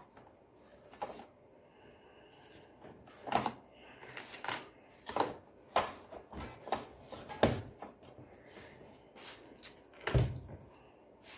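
Scattered clicks and knocks of tools and parts being handled, at irregular intervals, with the loudest knock about ten seconds in.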